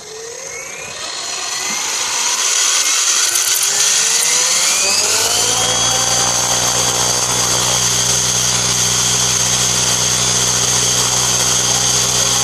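Align T-Rex 700E electric RC helicopter spooling up: motor and gear whine rising in pitch for about five seconds, then running steady at head speed. There is a strange extra noise, which the owner puts down to a bad motor pinion gear mount bearing.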